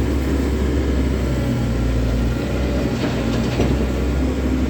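Komatsu 130 excavator's diesel engine running steadily under work.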